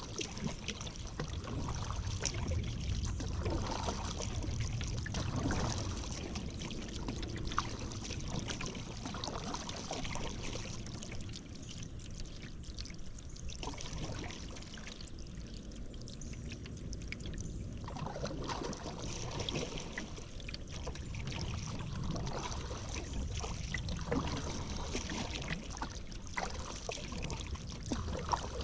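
A paddle dipping into river water in repeated strokes, with splashing and dripping, over a low rumble.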